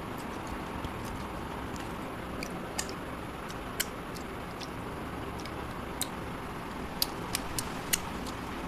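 A person chewing a mouthful of rice and curry close to the microphone, with scattered sharp wet clicks and smacks, several in quick succession near the end, over a steady background hiss.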